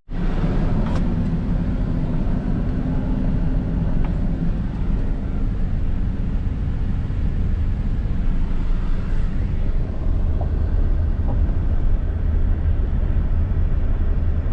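Vehicle driving: a steady low rumble, with a low engine hum over the first six seconds or so.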